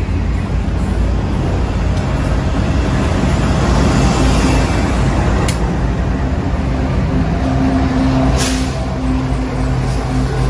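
Freight train rolling past close by: a continuous rumble of steel wheels on rail, with two sharp clanks. From about halfway through, a GE ES44AC diesel locomotive in the train passes, adding a steady engine hum.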